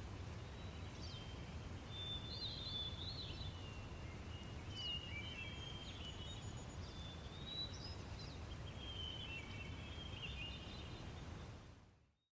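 Outdoor ambience of several songbirds chirping and trilling over a steady low rumble, fading out near the end.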